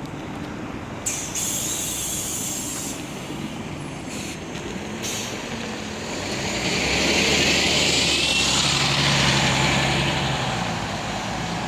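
Scania OmniLink city bus: a sudden hiss of compressed air about a second in, lasting about two seconds, then the Scania DC9 diesel engine grows louder from about six seconds in with a rising whine as the bus pulls away.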